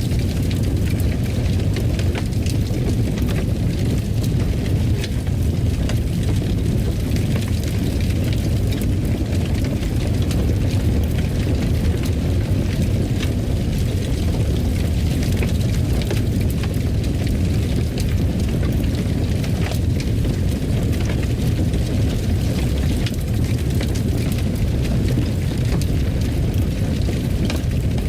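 Fireplace fire: a steady low rumble of burning with frequent small crackles and pops.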